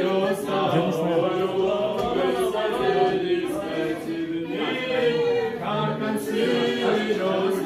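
Several voices singing together in harmony without instrumental accompaniment, in a choral style.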